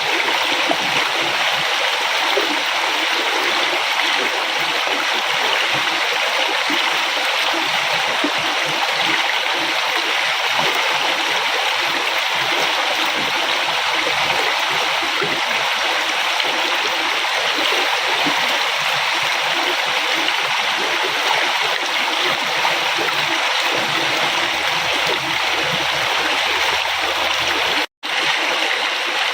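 River water flowing steadily, a continuous rushing and babbling. It drops out for a split second near the end.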